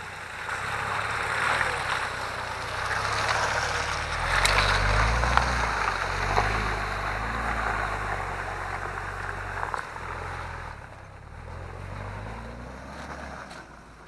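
An off-road vehicle's engine working under load, pulling harder from about four seconds in and easing off near the end, with the rushing, splashing noise of tyres churning through mud and water.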